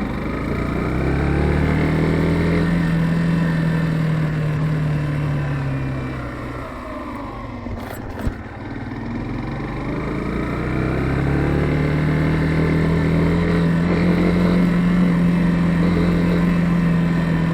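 Yamaha FZ15's single-cylinder engine pulling the motorcycle along: the engine note rises and holds, drops off as the rider eases off about six seconds in, then rises again and holds steady. A short sharp knock comes about eight seconds in.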